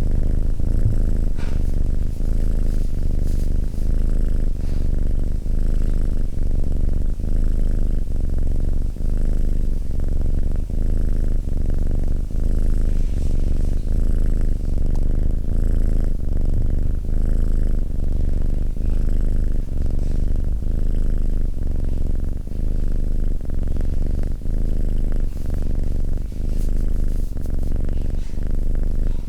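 Domestic cat purring steadily: a low rumble that rises and falls in an even rhythm with each breath in and out.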